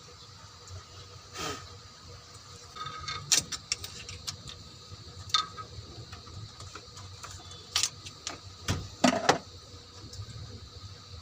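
Scattered metallic clinks and knocks of hand tools and engine parts being handled, with a quick run of clicks about three seconds in and the loudest knocks about nine seconds in.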